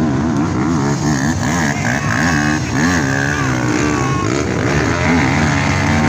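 Dirt bike engines revving, their pitch rising and falling over and over as the riders work the throttle, with more than one bike heard at once.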